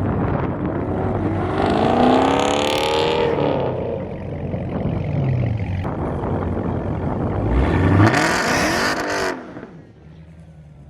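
Cars accelerating hard, engines revving high, in two bursts with the pitch rising then falling. The second burst ends abruptly about nine seconds in.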